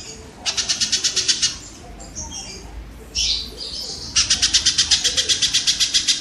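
A tengkek (kingfisher) calling: fast, harsh rattling trills of evenly repeated high notes, about eleven a second. The first trill lasts about a second, shorter calls follow, and a longer trill starts about four seconds in.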